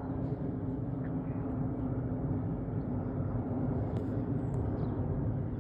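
Jet airliner noise: a steady, even low rumble of engines and airflow with a faint constant hum, and a couple of faint ticks about four seconds in.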